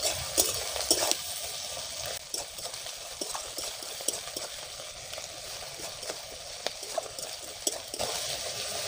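Sliced onions and ginger-garlic paste sizzling in oil in a metal kadai, stirred with a spatula that scrapes and taps against the pan in irregular strokes. The onions and paste are being sautéed until browned.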